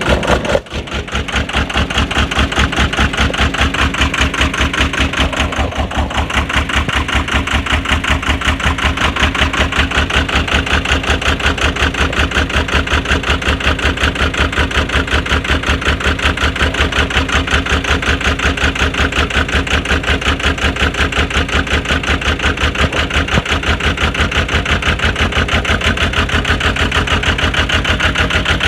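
Diesel engine idling in severe frost after a cold start, running with a steady, rapid, even pulsing beat. There is a brief dip in level just after the start.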